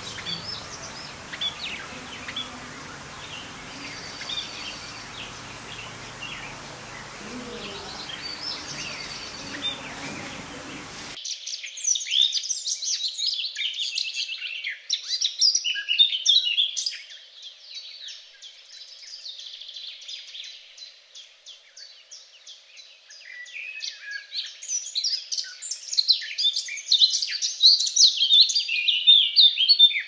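Budgerigars chirping and warbling softly over a background hiss. About eleven seconds in the sound switches abruptly to a louder, dense twittering of many small birds. It eases off in the middle and builds again near the end.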